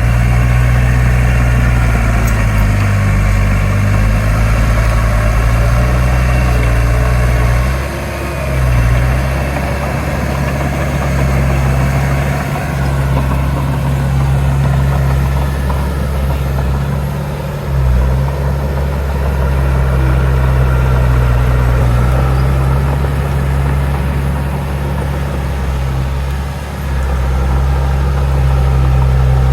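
Heavy diesel engine of earthmoving machinery running steadily, with a strong low drone and a few brief dips in level.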